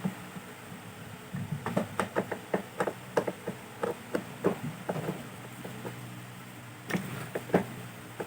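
Irregular clicks and knocks of a Bluetooth amplifier box's case being handled and opened up, with two louder knocks near the end.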